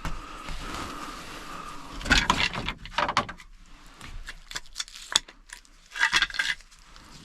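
Metal parts and hand tools clinking and scraping in short bursts as a driveshaft U-joint is fitted, with a faint steady whine in the first couple of seconds.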